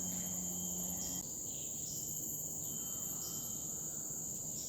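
A chorus of forest insects buzzing, a steady high-pitched drone.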